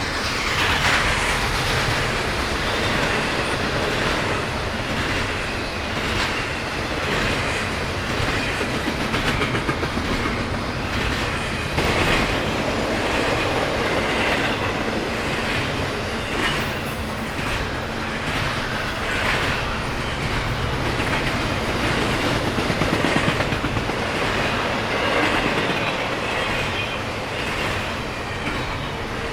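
BNSF freight train's cars rolling past, with a steady rumble and the wheels clattering over the rail joints throughout.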